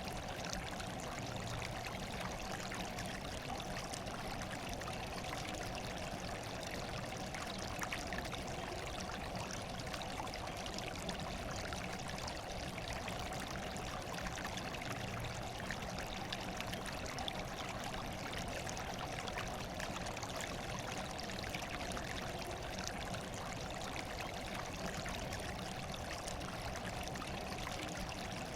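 Steady running water, an even rushing that does not change.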